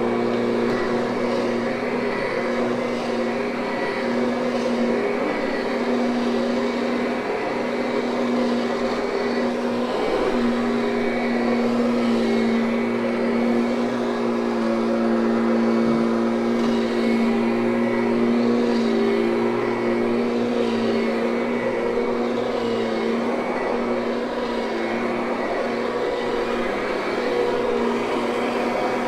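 Kirby direct-air upright vacuum cleaner running steadily over carpet, a constant motor hum whose pitch and loudness waver slightly as it is worked across the pile.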